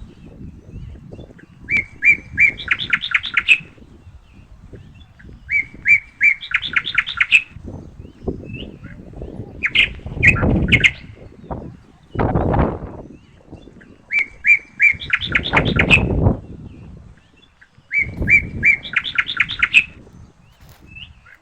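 A songbird repeating the same short song phrase about every four seconds: a few even notes, then a quick run of higher notes. Gusts of wind rumble on the microphone between and under the song.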